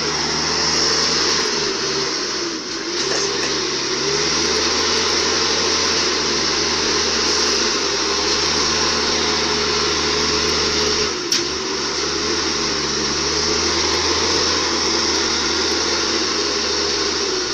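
Truck engine running steadily under load, with a single sharp knock about eleven seconds in.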